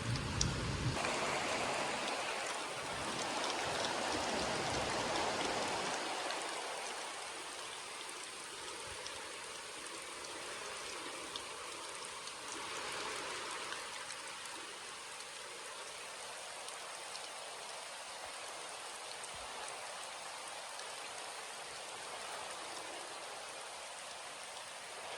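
Rain falling steadily, a dense patter of drops. A low rumble of thunder dies away over the first six seconds or so.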